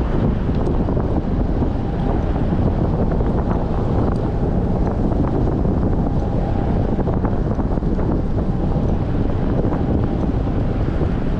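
Strong wind buffeting a GoPro's microphone while cycling: a steady, heavy low rumble of wind noise with a few faint ticks.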